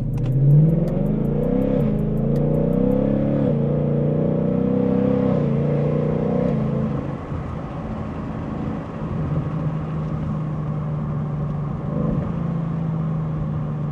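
Car engine accelerating hard, its pitch climbing and dropping back at gear changes, then easing into a steady cruise about seven seconds in.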